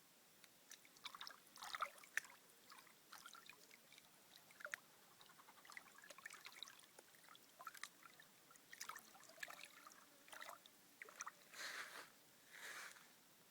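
Faint, irregular small splashes and trickles of water, with two longer sloshing swells near the end.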